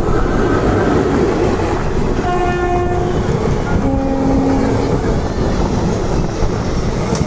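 Rumble and clatter of Indian passenger trains at speed, heard from an open carriage window as an electric-hauled train passes close on the next track. A train horn sounds twice, a couple of seconds in and again about a second later, at a slightly lower pitch.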